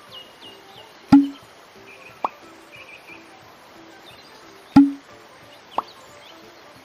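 Cartoon sound effects of farm buildings popping into place: two heavy thuds about a second in and near the end, each followed about a second later by a lighter pop, over faint bird and insect chirps.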